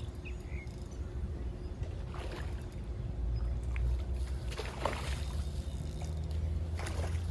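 Wind buffeting the microphone with a steady low rumble, while a foul-hooked peacock bass splashes at the water's surface a few times.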